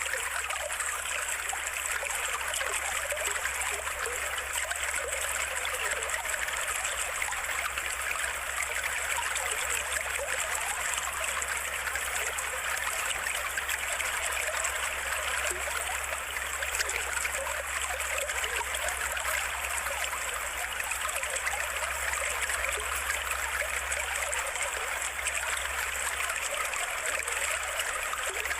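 Trickling, babbling stream water, a steady, even running sound with no breaks.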